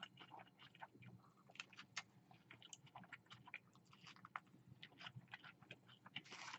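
Faint, close-up chewing: a person chewing a mouthful of food, with many small irregular mouth clicks.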